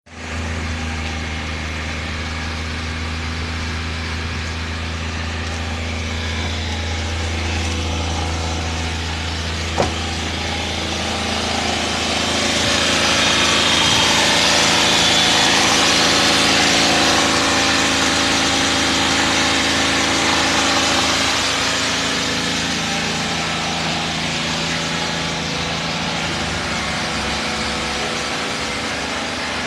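Vehicle engine idling steadily during an engine decarbonising service. For several seconds near the middle it grows louder and hissier, then settles back, and there is one sharp click about ten seconds in.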